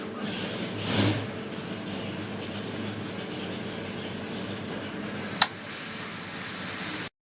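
582-cubic-inch race engine running steadily, swelling briefly about a second in. A single sharp click comes near the end, and the sound cuts off suddenly.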